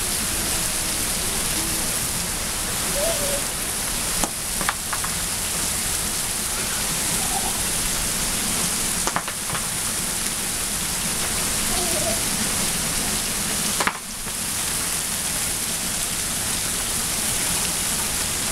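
Heavy rain pouring steadily, a dense even hiss of drops on the ground and standing water, with a few brief knocks.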